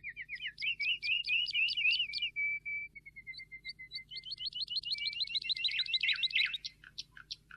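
A small songbird singing: runs of fast repeated high chirps in trills, a softer, slower series of notes in the middle, then another quick trill that fades out near the end.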